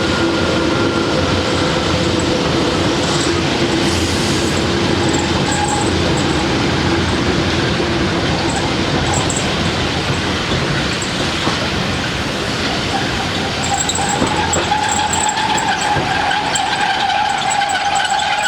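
Train running on the rails, a steady loud rumble with a whining tone that fades out about halfway. About three-quarters through, a wheel squeal comes in and holds.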